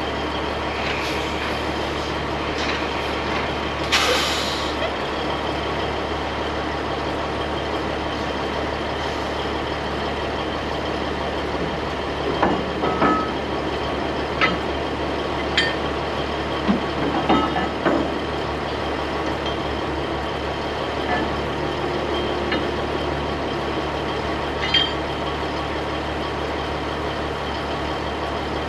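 Heavy truck engine idling steadily, with a short air hiss about four seconds in and a scatter of metal clanks and knocks over several seconds near the middle.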